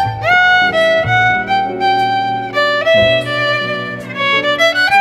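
Violin music: a bowed melody with short slides between notes over lower sustained notes.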